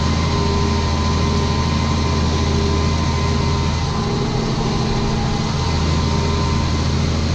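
Ford TW tractor's six-cylinder diesel engine running steadily under load, pulling a plough.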